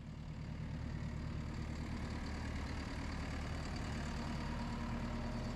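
JCB tracked skid steer's diesel engine running steadily.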